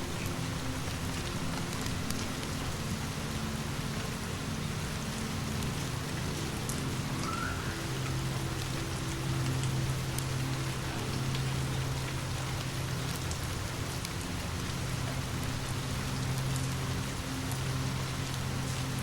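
Steady rain falling, with a few faint, sharp crackles and a low steady hum underneath that grows a little stronger about halfway through.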